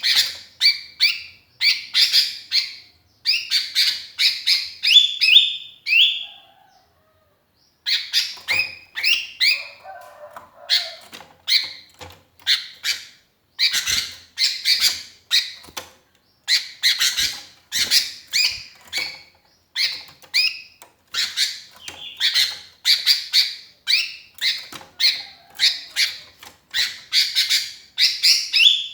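Sooty-headed bulbul (kutilang) calling vigorously for company: short, bubbly chirped phrases repeated in quick succession, about twice a second. There is one brief pause about six seconds in.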